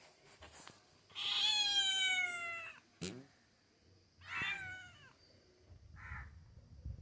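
Cat meowing three times: first a long call that falls in pitch, then a shorter one, then a brief one near the end.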